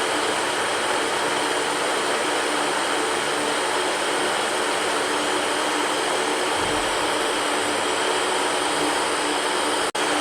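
Electric fan running steadily: an even rush of air with a faint steady hum. It cuts out for an instant near the end.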